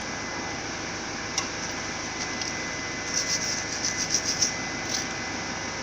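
A click, then a run of short hissy bursts of WD-40 aerosol sprayed onto seized suspension-arm bolts to free them, over a steady background hum.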